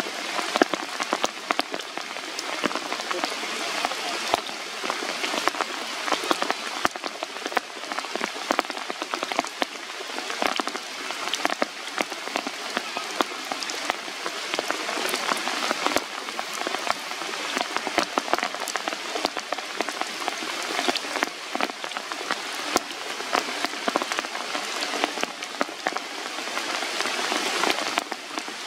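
Steady rain falling on the leaves of a forest canopy: an even hiss with many separate drop ticks scattered through it.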